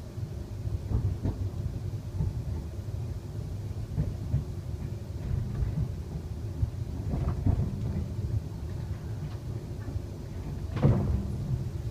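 Inside a Class 350 Desiro electric multiple unit running: a steady low rumble of the wheels on the rails, with a few knocks from the wheels over the track, the loudest near the end.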